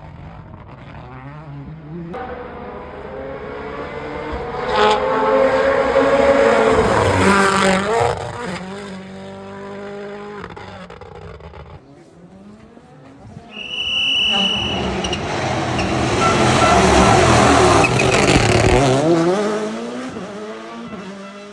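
Two turbocharged rally cars racing past one after the other, each engine note rising as it accelerates and then falling away as the car passes. The second car arrives about halfway through, with a brief high squeal as it comes in.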